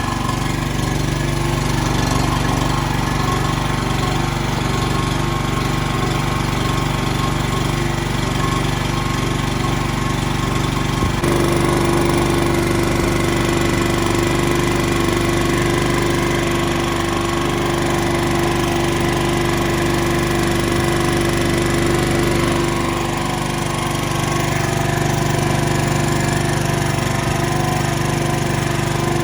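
Portable generator's small engine, fed LPG through a converted carburetor, running steadily on a test run after an oil-leak repair. Its note shifts about eleven seconds in, then holds steady again.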